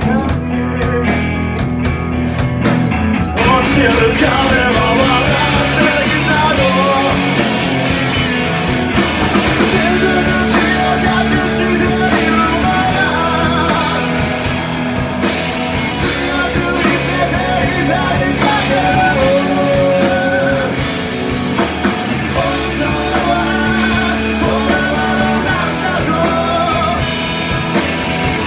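Live rock band playing loud with two electric guitars, bass and drums, a singer's voice over it. The sound is the full band as a live recording, loud and dense, with the vocal line coming in after about three seconds.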